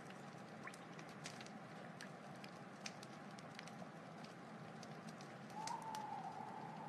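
Wood fire burning, crackling with scattered sharp pops over a steady hiss. Near the end a wavering, whistle-like hiss joins briefly.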